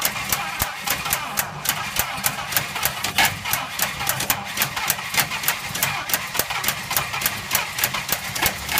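Old Packard flathead engine running unevenly, with a regular sharp beat about three to four times a second over a steady low rumble.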